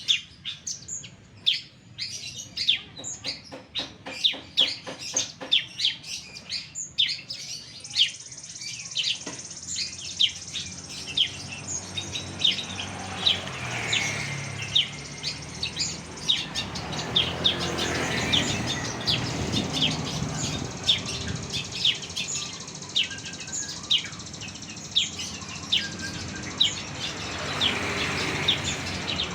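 Small songbird chirping over and over: short, sharp, high chirps, several a second. From about ten seconds in, a rushing noise sits underneath.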